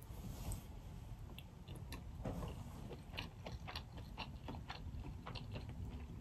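Faint mouth sounds of someone chewing boiled crawfish, with many small clicks throughout.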